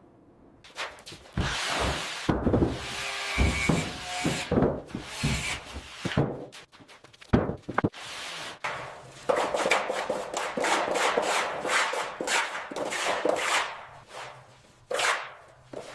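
Irregular scraping, rubbing and knocking on wood. The strokes come in separate bursts at first and grow denser and more continuous about nine seconds in.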